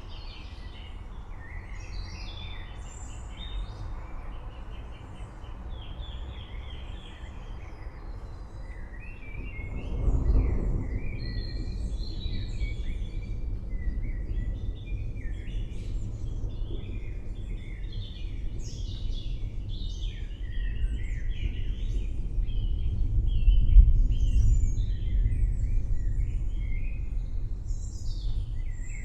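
Many forest birds chirping and calling over a low rolling rumble of distant thunder. The rumble rises suddenly about a third of the way in and swells again to its loudest near the end.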